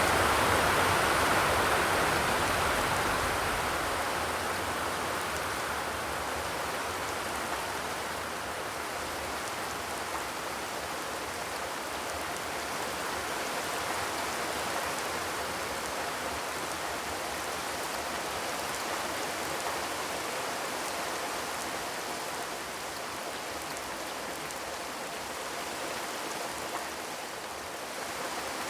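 Rain falling on a zinc sheet roof: a steady hiss of many drops, heavier at first and easing within the first several seconds, then holding steady.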